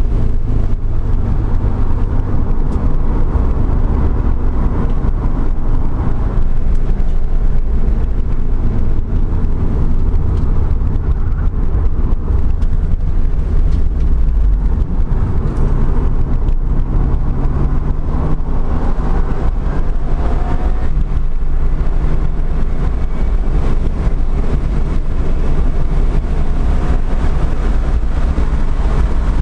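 Inside the cabin of a 2013 Subaru WRX driven hard on a race track: its turbocharged flat-four engine running under load over heavy road and wind rumble. The engine pitch climbs a couple of times in the second half as the car accelerates.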